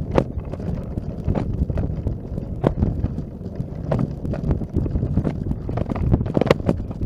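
Footsteps in snow at a walking pace, about one to two steps a second, over a low wind rumble on the microphone.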